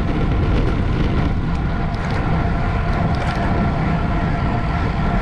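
Steady wind rush buffeting the microphone, with a faint steady whine running underneath and a few light ticks.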